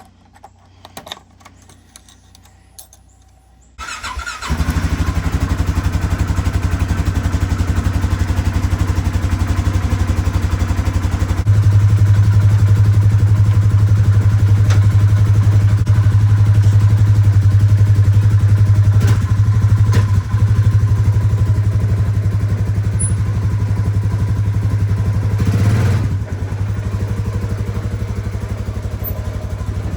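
Polaris Sportsman 570 ATV's single-cylinder engine starting about four seconds in, then running steadily. It gets louder about eleven seconds in and eases back a little near the end.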